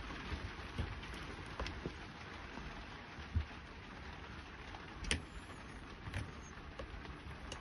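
A few light clicks and taps of small RC car parts and wires being handled, over a steady hiss.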